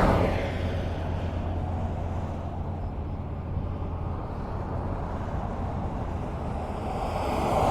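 Highway traffic: a vehicle passes and its tyre noise fades away just at the start, followed by steady road noise with a low hum. Another vehicle approaches, getting louder near the end.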